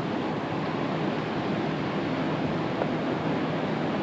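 Steady rushing noise of strong storm wind blowing across the camcorder microphone, even and unbroken throughout.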